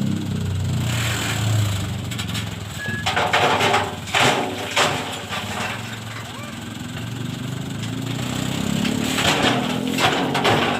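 Dump truck's diesel engine running, with a cluster of loud knocks and rattles about three to five seconds in.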